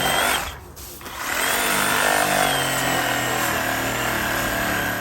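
Electric power tool running, used for cutting out tree roots: a short run that stops just under a second in, then it starts again about a second in and runs steadily, its whine slowly falling in pitch.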